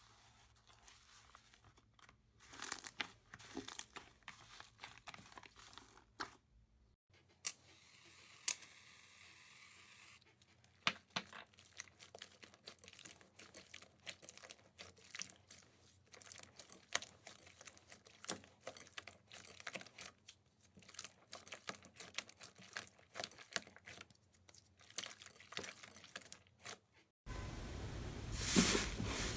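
Hands squeezing, poking and stretching slime: irregular crackling, popping and crinkling, in several short clips, with a louder clip near the end.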